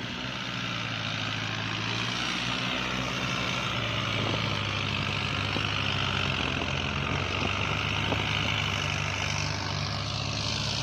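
Small Kubota diesel tractor engine working hard under load, pushing through deep, wet mud. It gets louder over the first couple of seconds, then holds a steady drone with a higher whine above it.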